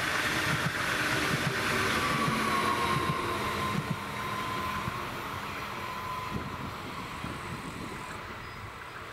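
A BRB Stadler FLIRT electric multiple unit running past and away on the rails. Its wheels click over the track in the first few seconds, and a high whine sinks slightly in pitch, all fading steadily as the train recedes.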